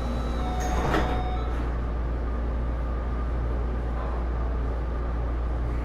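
Interior sound of a Taipei Metro Series C301 metro car: a steady low rumble with faint steady whining tones that stop about half a second in. A short hiss or clunk comes about a second in.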